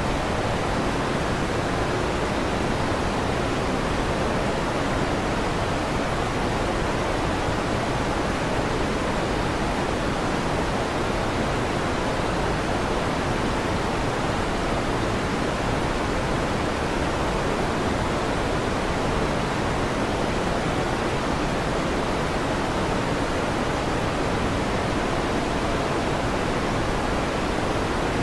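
Electric fan running: a steady, even rushing noise that never changes, with no thunder claps.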